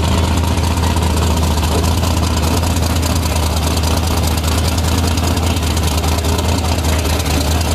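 A car engine running open headers idles steadily and loud, with a deep low rumble and rapid, even exhaust pulses.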